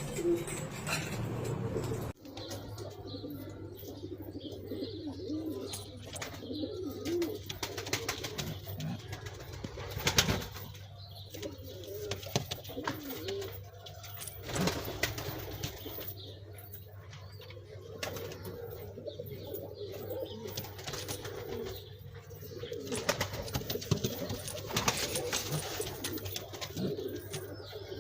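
Domestic pigeons cooing repeatedly, many low rolling coos overlapping, with occasional sharp clicks and a steady low hum underneath.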